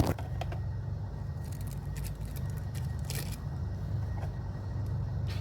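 Light clicks and a brief scrape of small parts being handled as a new rubber O-ring seal is fitted to a DSG gearbox oil filter housing. A steady low hum runs underneath.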